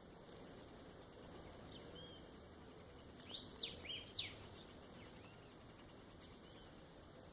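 Faint outdoor background with a short bird call a little past halfway: three or four quick, high, sweeping notes.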